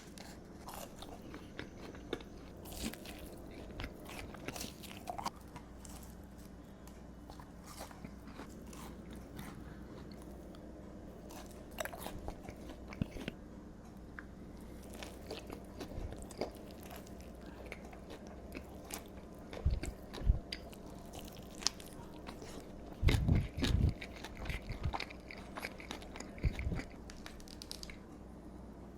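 Close-miked eating of Burger King fast food: biting, chewing and crunching with small wet mouth clicks, the bites louder around two-thirds of the way through.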